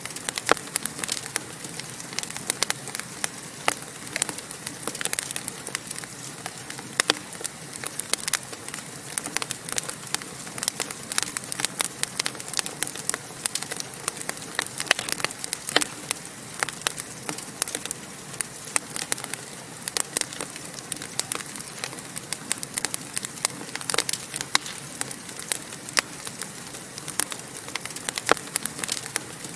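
Wood fire crackling in a fireplace: a steady hiss with dense, irregular sharp pops and snaps.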